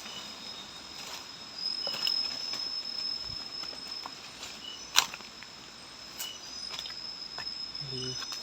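Night insects, a cricket's steady high-pitched trill, with rustling and a single sharp snap about five seconds in.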